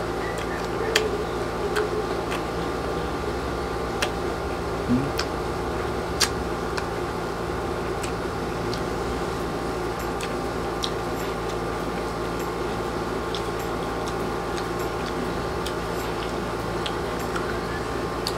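Close-up chewing of crisp unripe green mango, with sharp crunching clicks about once a second. Under it is the steady hum of a room air conditioner.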